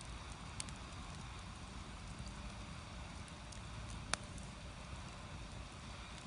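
Firewood burning in an agungi fire hole under a cast-iron cauldron: a steady low noise of the fire with scattered small crackles and one sharp pop about four seconds in.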